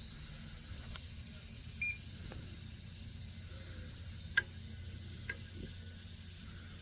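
A steady low hum with a short high beep just under two seconds in and a couple of faint clicks later on.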